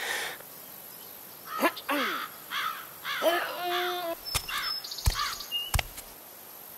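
Animated baby character vocalising in short whiny syllables, each rising and falling in pitch, a string of them about two to three a second, with a few sharp clicks near the middle.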